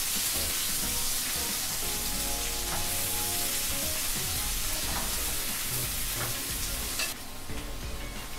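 Small potatoes frying in melted butter in a glass pan, sizzling steadily as they are stirred with a wooden spatula, with light clicks and scrapes of the spatula. The sizzle cuts off suddenly about seven seconds in.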